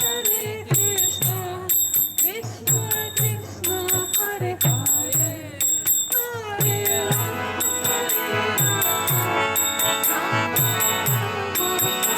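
Kirtan music played between chants: a hand drum's bass strokes fall in pitch on a steady beat, and ringing hand cymbals (karatalas) are struck in time with them. A melody line runs over the rhythm, and from about seven seconds in a sustained chord fills out the sound.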